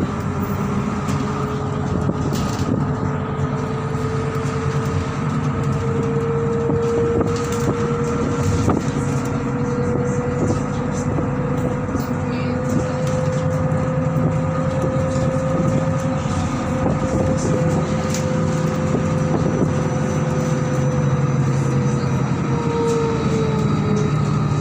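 MAZ-103 city bus under way, heard from inside: a steady drivetrain whine climbs slowly, holds, then falls away near the end as the bus slows. Beneath it are a low engine hum and scattered rattles.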